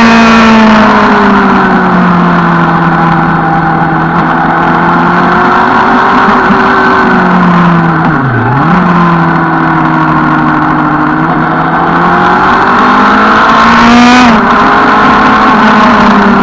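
Suzuki Bandit 650's inline-four engine running under way, its pitch rising and falling with the throttle. About eight seconds in the pitch dips sharply and recovers; near the end it climbs, drops abruptly, then falls away as the bike slows, with steady wind rush underneath.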